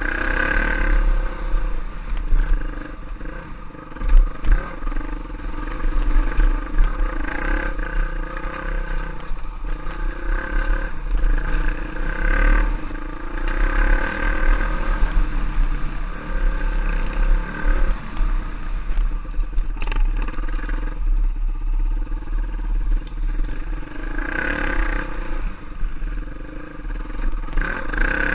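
Trail bike engine running, its pitch rising and falling as the throttle opens and closes, over a steady low rumble, with a sharp knock about four seconds in.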